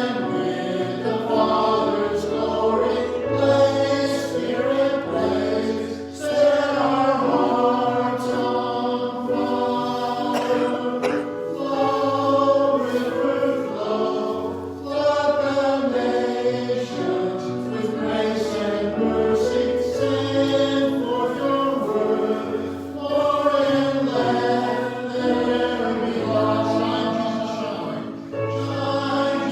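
A choir singing a hymn in several voices over held low accompanying bass notes that change every couple of seconds.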